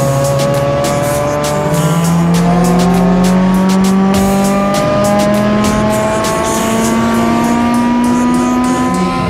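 Toyota Corolla XRS's 2ZZ-GE four-cylinder engine pulling hard, its pitch rising steadily as the car accelerates through one gear, then dropping near the end. A song's beat plays over it.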